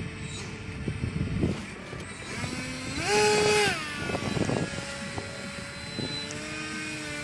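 Electric motor and propeller of a radio-controlled paraglider on a 4-cell battery whining. It is throttled up about two and a half seconds in, held loud for about a second, then eased back to a lower steady hum.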